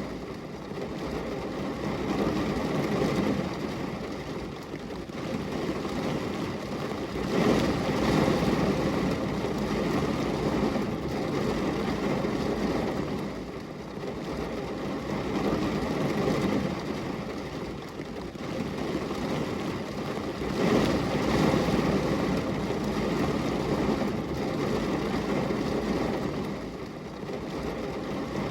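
Rain falling steadily on window glass: a dense, even hiss that swells and eases, loudest about seven and twenty-one seconds in.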